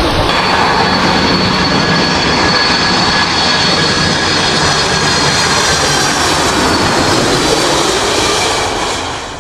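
Boeing 747's four jet engines at takeoff power: a loud, steady rush of jet blast with thin, steady high turbine whine tones over it. It fades out near the end.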